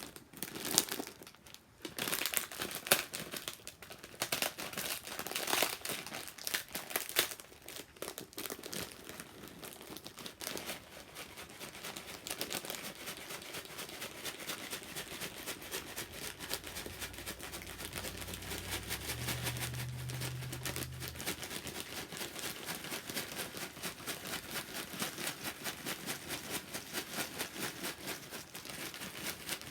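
Plastic snack packet crinkling and rustling as dry ramen noodles and their seasoning are crushed and handled inside it. Irregular crackles come first, then a fast, even shaking rhythm through the second half.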